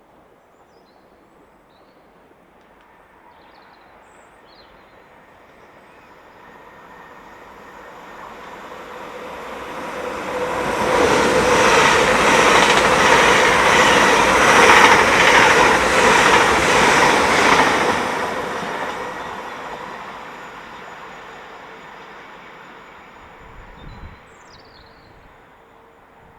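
A train approaching, passing close by and fading away. It is loudest for about seven seconds in the middle, with a fast, even clatter of wheels over the track. A short knock comes near the end.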